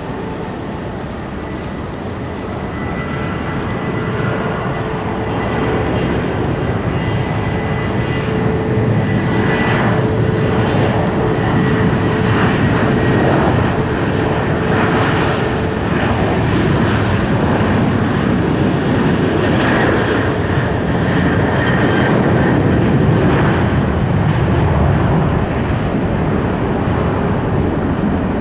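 Jet airliner's engines at takeoff power on the departure roll, a loud steady rumble with a whining fan tone, swelling over the first several seconds and then holding.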